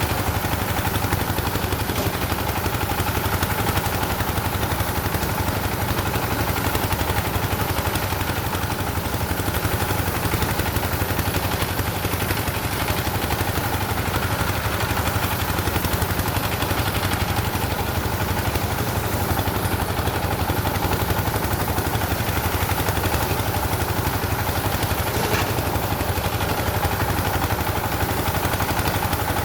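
An engine running steadily at an even speed throughout, with no change in pitch or load.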